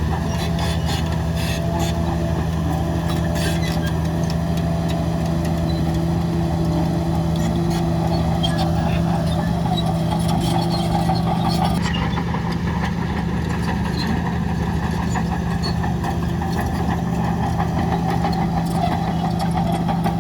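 Heavy diesel engine of earth-moving machinery running steadily at an even speed, with scattered clicks and clanks. The higher part of the sound changes about twelve seconds in.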